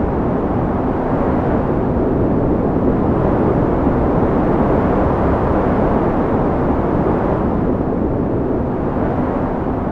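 Wind blowing steadily, a low rushing that swells a little in the middle and eases slightly near the end.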